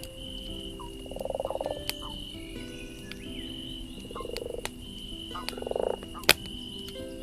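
Frogs croaking: three rasping, pulsed calls of about half a second each, over a steady high trill. Campfire crackle pops sound a few times, the loudest about six seconds in.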